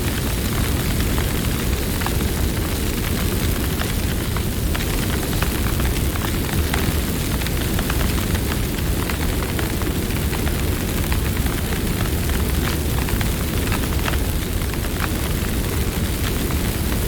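Campfire burning, a steady low rumble of flames with frequent sharp crackles and pops from the burning wood.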